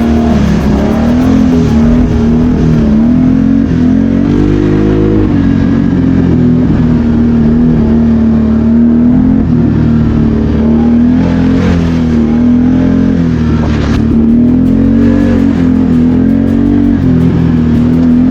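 ATV engine running under way, its pitch wavering slightly with the throttle, with a brief rev up and back down about four to five seconds in.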